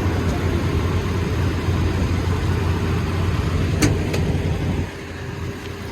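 Toyota Tundra's 5.7-litre V8 idling with a steady low hum. There is one sharp click a little under four seconds in, and the hum drops somewhat about five seconds in.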